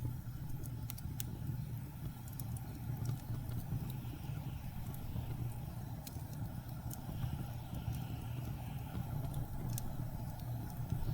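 Wood fire crackling, with sharp pops scattered irregularly, over a steady low rumble of blizzard wind.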